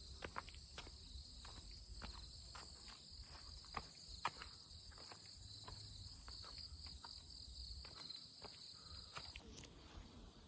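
Footsteps crunching along a path, irregular, about two a second, over a steady high chorus of insects that stops sharply about nine seconds in.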